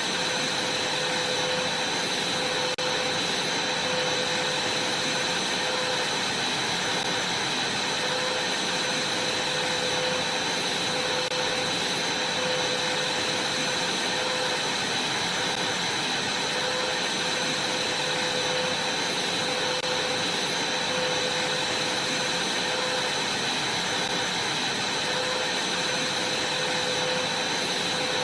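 Vacuum cleaner running steadily, a constant rushing hiss with a steady hum and a high whine.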